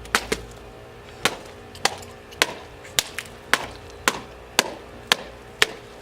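Metal pipe repeatedly striking a watermelon: about a dozen sharp, evenly spaced hits, roughly two a second.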